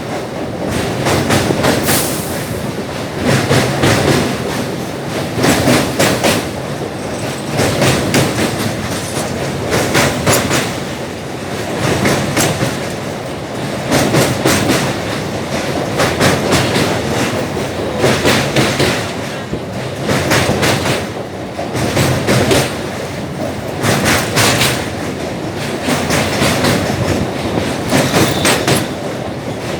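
Passenger train running along the track, heard from aboard: a steady rumble with bursts of clickety-clack wheel clatter about every two seconds.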